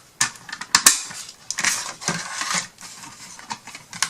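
Small plastic paper trimmer being worked: sharp clicks and knocks, then a couple of longer scraping rasps as the blade cuts through paper, with more small clicks near the end.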